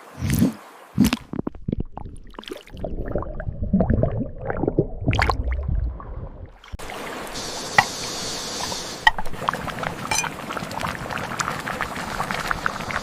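Water splashing and gurgling in irregular low surges; about seven seconds in it changes abruptly to a steady rushing hiss with small ticks and clinks.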